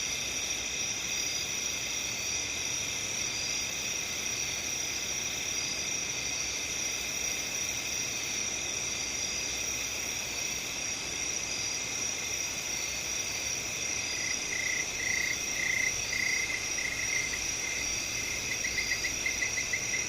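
Night chorus of crickets and other insects: several steady, shrill trills layered at different pitches, one of them pulsing. About fourteen seconds in, a nearer, lower-pitched caller joins with short chirps about twice a second, then a quick trill near the end.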